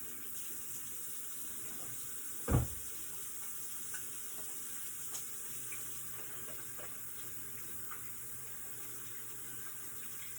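Poultry frying in hot extra virgin olive oil in a skillet, a steady sizzle, with a kitchen tap running under it. One sharp knock about two and a half seconds in.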